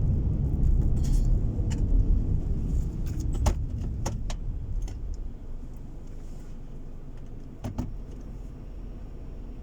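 Car cabin noise from a moving car, a low road-and-engine rumble that eases off about halfway through as the car slows. A few sharp clicks and rattles sound through it.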